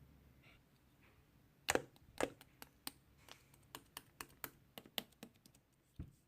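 A run of irregular sharp clicks or taps, about two or three a second, starting about a second and a half in, the first two loudest.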